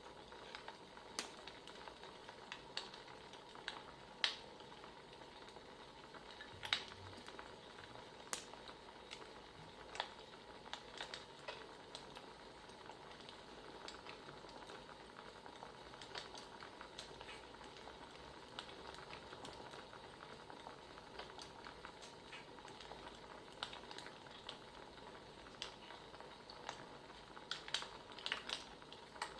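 Wood fire crackling: a steady low hiss with irregular sharp pops and snaps, a quick cluster of them near the end.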